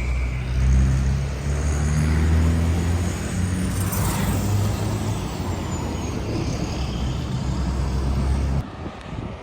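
Large truck's diesel engine running close by, a steady low drone that cuts off abruptly near the end.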